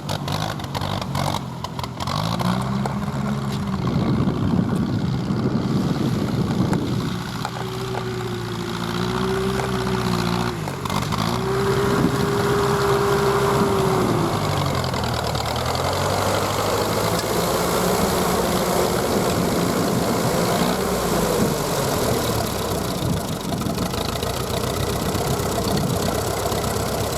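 Ferguson TED-20 tractor's four-cylinder engine running on petrol, revved up and let fall back three times, then running on with smaller changes in speed. The engine is worn: the owner says the liners need replacing, it burns oil, and the carburettor does not respond well to load.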